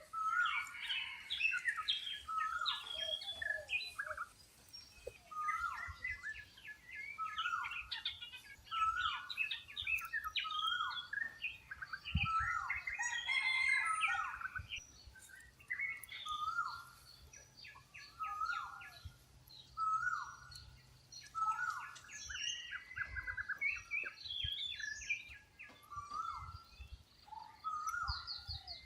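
Several wild birds calling and singing together. A short falling call repeats every second or two, with quicker, higher chirps and trills over it.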